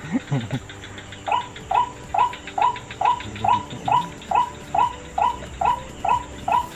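Recorded bird call played through a speaker as a hunting lure. One short note repeats evenly a little more than twice a second, starting about a second in, over steady insect chirping.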